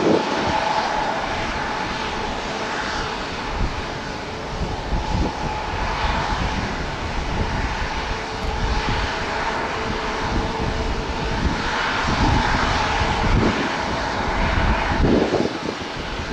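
Jet engines of a Boeing 747-8 running as the airliner arrives: a steady jet rumble with a steady whine throughout.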